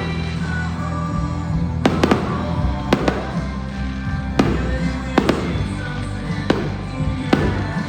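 Aerial fireworks bursting in a show, a sharp bang every second or so, some in quick pairs, over music playing.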